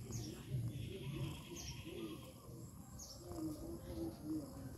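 Outdoor background of birds and insects: a bird's short falling chirp repeating about every one and a half seconds, and an insect's steady buzzing trill for about two seconds early on.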